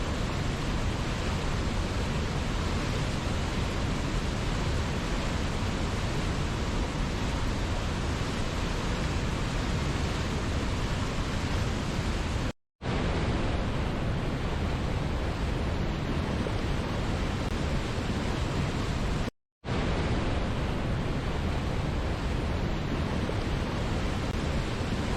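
Waterfall, a steady, even rush of falling water heavy in the low end. It cuts out completely for an instant twice, about halfway through and again a few seconds later.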